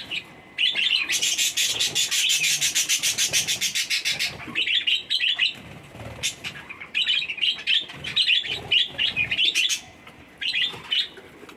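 Pet lovebirds in a cage chirping noisily, with many short high chirps. About a second in comes a fast rattling series, roughly nine strokes a second, lasting about three seconds.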